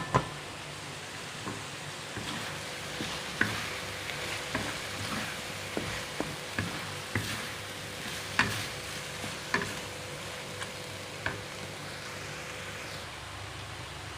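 A cooking utensil knocks and scrapes irregularly against a pot or pan as food is stirred, over a steady sizzling hiss. Two sharp clacks come right at the start, then roughly one knock a second until about three seconds before the end.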